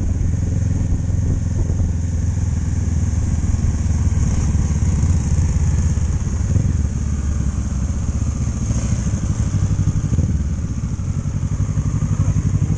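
Motorcycle engine running under way, a steady fast-pulsing exhaust drone with a constant hiss over it; it eases briefly about eleven seconds in, then picks up again.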